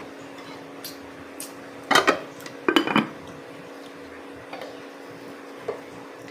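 Spoon and fork clinking and scraping against a plate and bowl while eating. There are scattered clicks, with the loudest clusters about two and three seconds in, over a faint steady hum.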